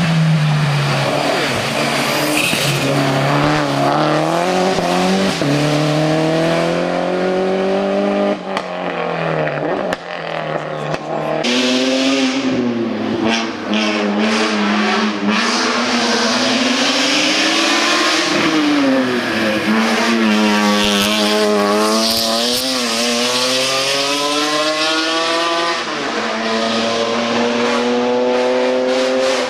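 Race car engine accelerating hard up the hillclimb course, its pitch climbing through each gear and dropping back at every shift, over and over.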